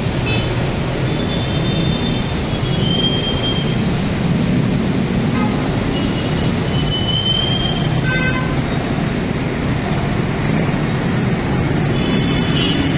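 Steady, loud road and traffic noise heard from a moving motorbike, with a low engine drone underneath. A few brief high tones come through about 1.5, 3 and 7 seconds in.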